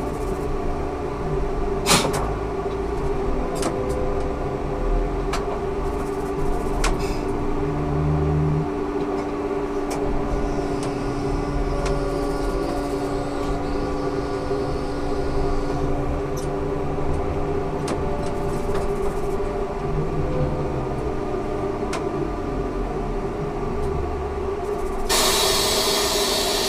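Ikarus 280T trolleybus running, its electric drive giving a steady whine of several held tones, with scattered clicks and rattles and a sharp knock about two seconds in. A loud burst of hiss comes near the end.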